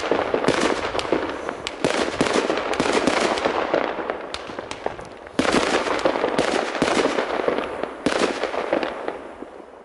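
Fireworks from a compound firework battery: dense crackling with many sharp bangs, renewed in fresh loud volleys several times, then dying away at the end.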